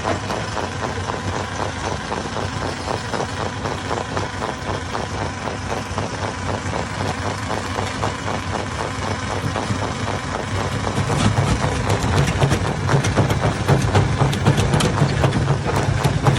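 Hammer stone crusher and its engine running steadily. About eleven seconds in it gets louder, with a rapid clatter of knocks as stone goes through the hammers.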